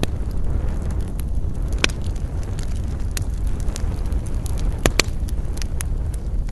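Campfire crackling and popping over a steady low rumble of flames and wind. Scattered sharp pops, the loudest about two seconds in and a quick pair near five seconds.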